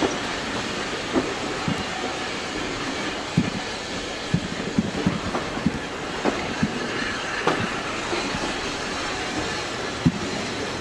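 Railway coach rolling along the track: a steady running rumble with irregular clicks and knocks from the wheels over the rail joints.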